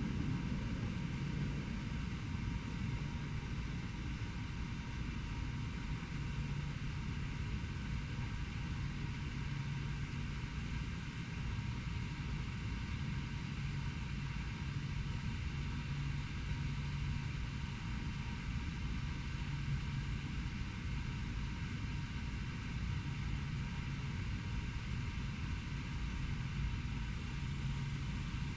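Steady urban background rumble of distant road traffic, with a low hum that comes and goes several times.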